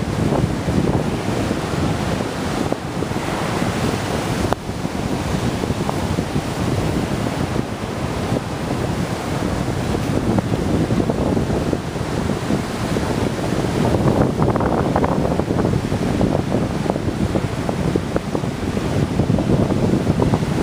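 Small ocean surf breaking and washing on a beach, under steady wind buffeting the microphone.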